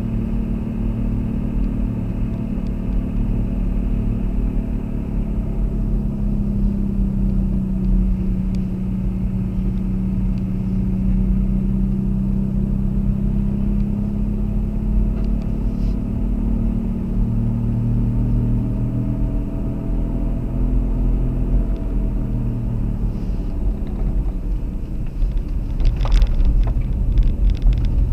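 A car driving: steady low engine hum and road rumble, the engine pitch slowly rising and falling with speed. A short run of clicks comes near the end.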